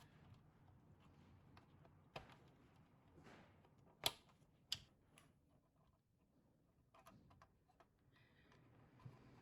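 Near silence with a few scattered sharp clicks, the two loudest about four and four and a half seconds in, over a faint low hum.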